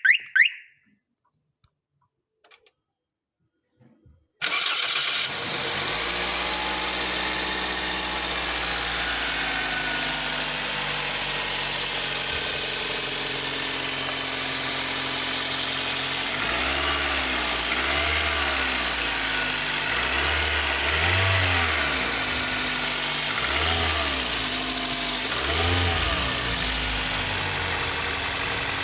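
Toyota 1ZZ-FE 1.8-litre four-cylinder engine starting about four seconds in, catching at once with a brief flare and settling into a steady idle. From about halfway through it is revved in a series of short throttle blips, rising and falling about every second or two.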